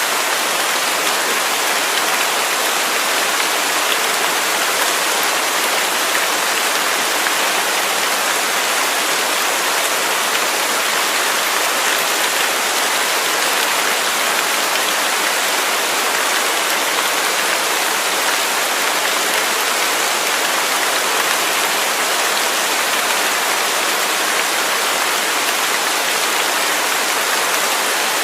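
Waterfall: a steady, unchanging rush of falling water, a bright, even hiss.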